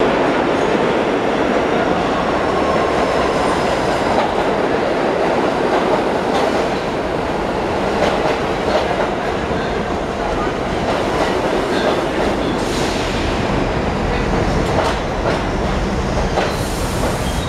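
R68 subway cars pulling into an underground station: a loud, steady rumble of steel wheels on rail, with a faint high wheel squeal in the first few seconds and sharp clicks over rail joints through the second half.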